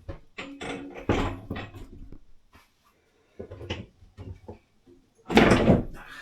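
Knocks and clunks from lids and panels of sailboat cabin storage being lifted, set back and closed, with a longer, louder clatter near the end.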